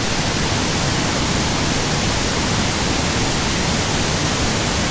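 Waterfall pouring into its plunge pool, with a branch of the falls alongside: a loud, steady rush of falling water.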